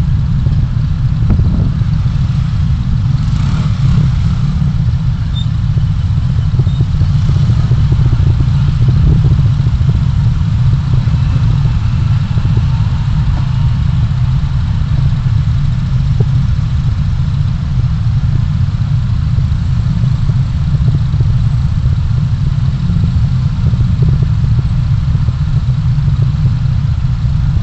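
Car driving in city traffic, heard from inside the cabin: a steady low rumble of engine and road noise, with faint passing traffic now and then.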